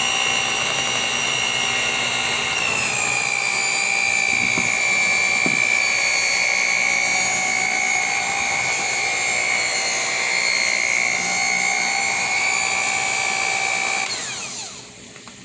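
Electric hand mixer running steadily with a high whine while beating batter; its pitch drops slightly about three seconds in, and near the end it is switched off and winds down.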